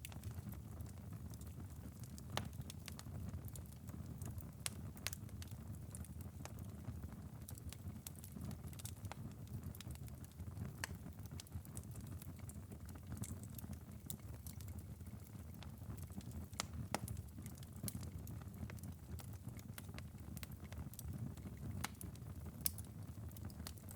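Wood-burning fireplace burned down to a glowing ember bed after hours of burning, giving off scattered, irregular crackles and pops over a low, steady rumble.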